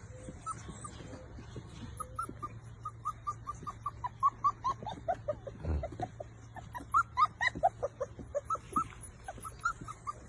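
Akita puppies whining and squeaking: many short, high squeals in quick succession, busiest in the middle.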